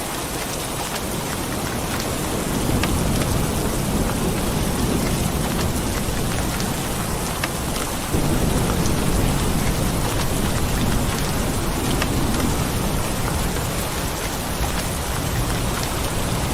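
Steady heavy rain with low rolling thunder. The thunder swells in a few seconds in, then comes back more suddenly about halfway through and fades again.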